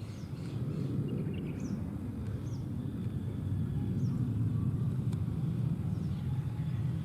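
Steady low rumble of traffic, with faint short high bird chirps scattered through.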